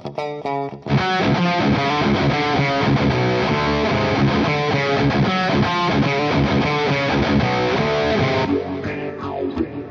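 Electric guitar played through the Overloud TH-U amp simulator. Separate picked notes give way about a second in to a louder, fuller passage, which drops back to lighter single notes near the end.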